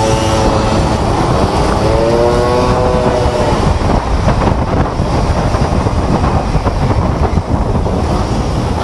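Steady low rumble of wind and traffic noise, with a brief smooth pitched tone that slides up and down about two to three seconds in.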